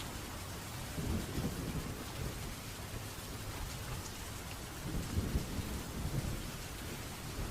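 Steady rain falling with thunder rumbling low, swelling twice, about a second in and again around five seconds in.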